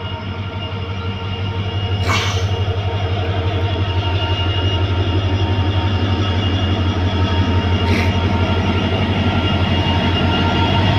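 WDP4D EMD two-stroke diesel locomotive running with a steady, pulsing low engine drone and steady tones above it, growing gradually louder as it nears. Two brief sharp sounds cut through, about two seconds in and again near eight seconds.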